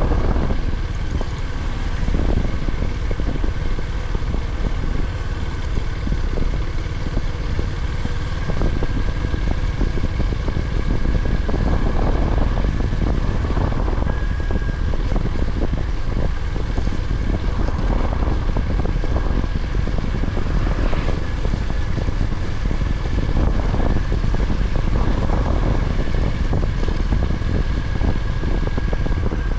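Honda GB350's single-cylinder engine running steadily while the motorcycle is ridden, with wind rushing over the microphone and a thin steady whistle above.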